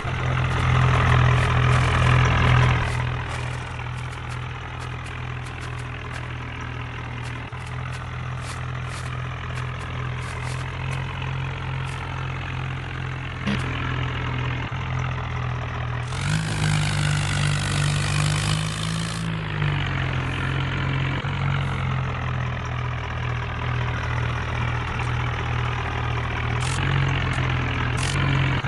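Tractor diesel engine idling steadily, rising in pitch and loudness briefly at the start and again for a few seconds about two-thirds of the way through.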